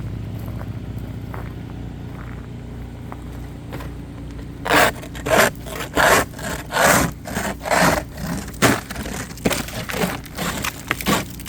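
Repeated hard scraping strokes, about one to two a second, starting about five seconds in over a steady low hum.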